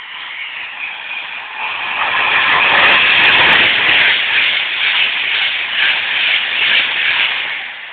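A high-speed passenger train passing through the station at speed without stopping: a rushing noise of wheels on rail and displaced air. It swells about two seconds in, stays loud for several seconds as the carriages go by, and fades near the end.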